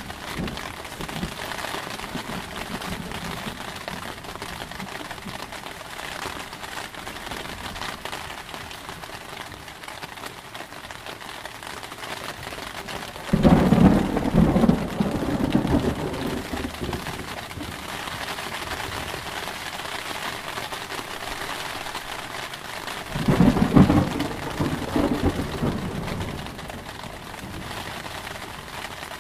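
Steady rain falling, with a roll of thunder breaking in suddenly about halfway through and another about ten seconds later, each fading over a few seconds.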